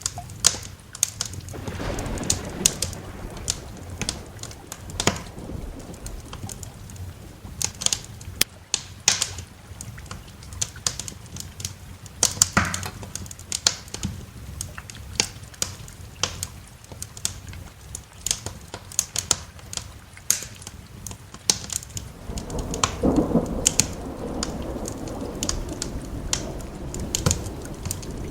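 Wood fire crackling with frequent sharp pops over steady rain, with rumbles of thunder swelling twice, early and near the end.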